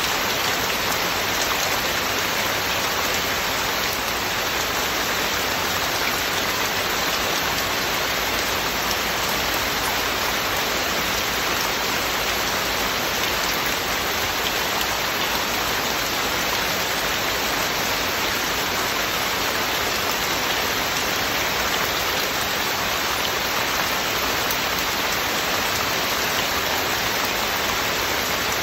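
Heavy rain falling steadily, a dense even hiss without breaks or single drops standing out.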